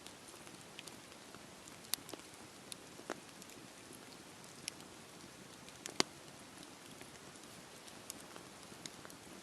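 Campfire crackling in steady rain: an even hiss of rainfall with scattered sharp pops and snaps, the loudest about six seconds in.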